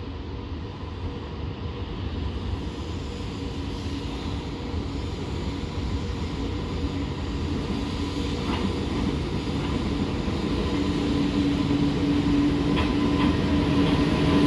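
Freight train approaching, its rumble growing steadily louder, with a steady hum coming up strongly in the last few seconds and a few faint clicks.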